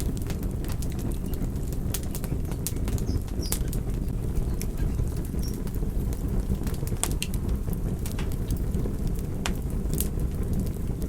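Wood fire burning: a steady low rumble of flames with sharp crackles and pops scattered irregularly, about one or two a second.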